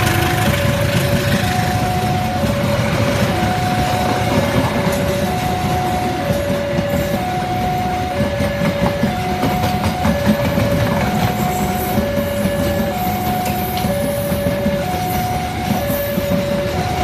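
A passenger train runs over a level crossing with a steady rumble and rail clatter. Over it the crossing's electronic warning alarm sounds, two tones of different pitch alternating evenly, about one pair a second.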